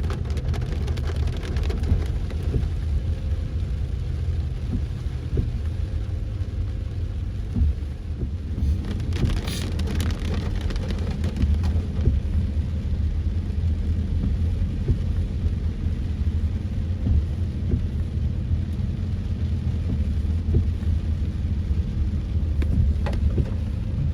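A car driving in heavy rain: a steady low rumble of engine and road, with rain hissing and pattering over it, and a brief louder hiss about nine seconds in.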